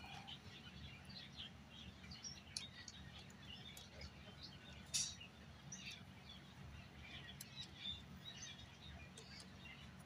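Faint birds chirping here and there over a low steady hum, with one sharp click about five seconds in.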